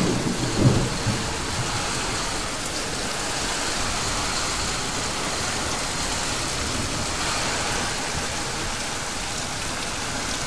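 Heavy downpour hissing steadily and beating on corrugated metal roofs, with a short low rumble in the first second.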